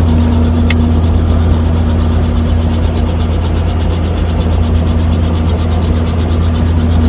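Helicopter engine and rotor running steadily: a loud, even drone.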